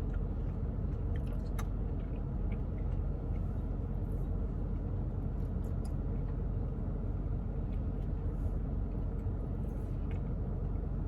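Steady low rumble, like a car cabin with the engine running, with a few faint clicks and taps from eating a Blizzard with a spoon.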